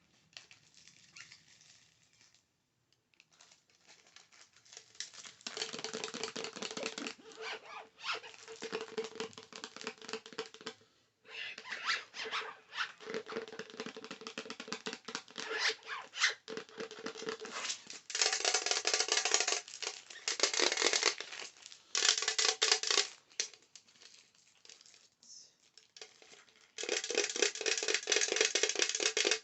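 Rapid tapping and clicking on hard objects, in dense runs broken by short pauses. It gets louder after the middle and runs on without a break near the end.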